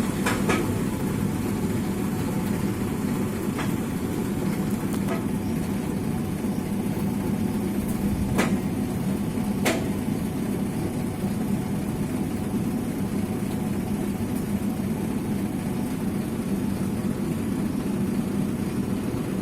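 Truck engine idling steadily, with a few sharp clicks or knocks about half a second, three and a half, eight and a half and ten seconds in.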